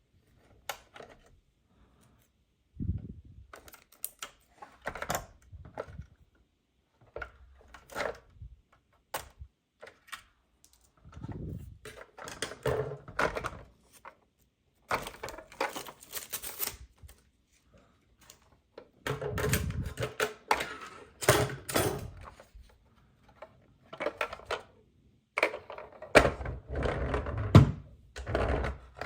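Plastic toy vehicles being handled: irregular clicks, clatters and knocks in short clusters, some with a dull thud as a piece is set down.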